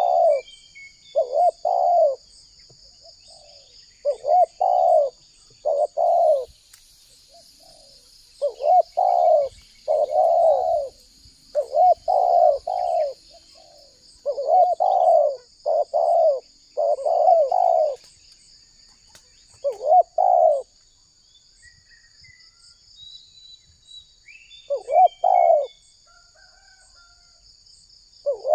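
Spotted dove cooing: repeated low, pitched coo phrases in groups of two to four, each group a second or so long, with short pauses between.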